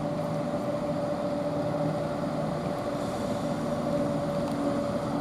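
Class 170 Turbostar diesel multiple unit idling while it stands at the platform: a steady engine hum with no change in pitch.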